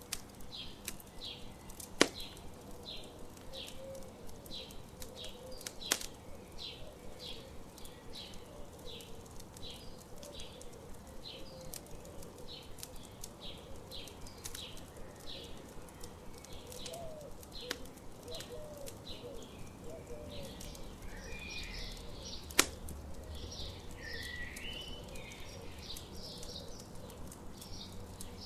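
Outdoor morning ambience of birds and a campfire. A steady series of short high chirps comes about twice a second, with fainter warbling song beneath it and more song phrases near the end. A campfire crackles low, with three sharp pops.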